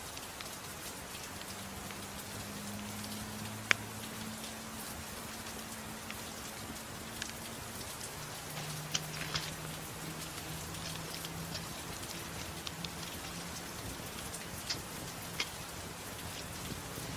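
Steady rain with a few sharp pops and crackles from a wood fire in a fireplace, the loudest pop about four seconds in.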